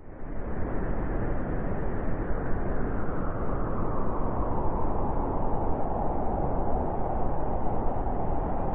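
Winter wind blowing steadily, a deep, even rush with no gusts standing out, cutting in suddenly at the start.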